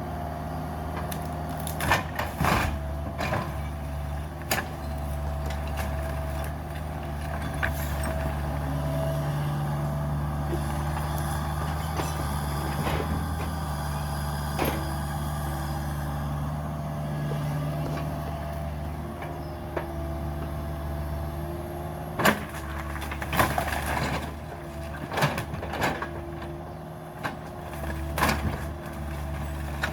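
Cat 305 mini excavator's diesel engine running steadily under load, with a steady whine on top. Sharp cracks and knocks come in a cluster a couple of seconds in and again in the last third, typical of the machine breaking up the house.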